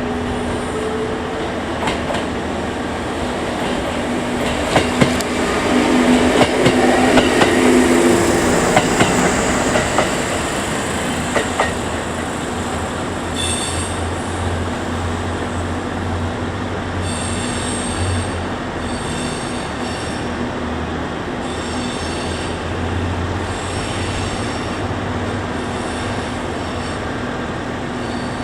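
A Kintetsu train rolls into the station with wheels clicking over the rail joints. It then stands with a steady low hum while high squealing tones come and go in short repeats.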